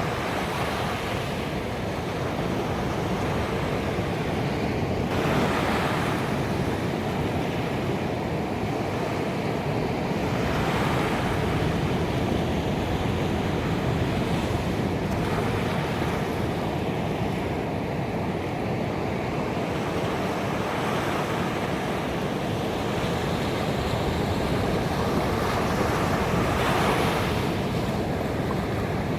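Ocean waves breaking on a beach: steady surf wash with a swell of brighter hiss every five or six seconds as a wave crashes in.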